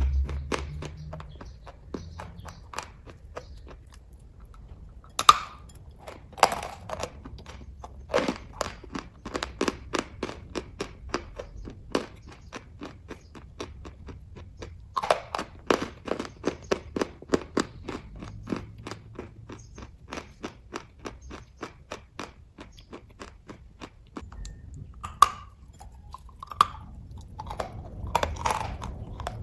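Close-up chewing of kaju katli, a soft cashew fudge: runs of quick wet mouth clicks and smacks, several a second, broken by short pauses.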